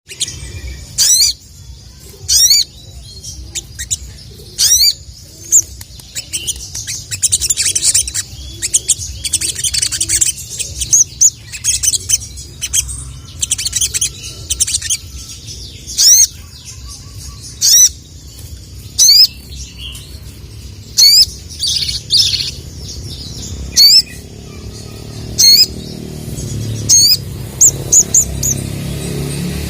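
Sogok ontong (little spiderhunter) calling: loud, sharp, high 'cuit' chirps repeated about every one to two seconds, with bursts of quick twittering in between. A low steady hum runs underneath.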